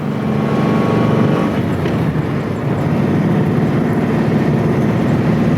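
Porsche 356B 1600's air-cooled flat-four engine running under load as the car drives. It gets louder in the first second and then holds a steady note.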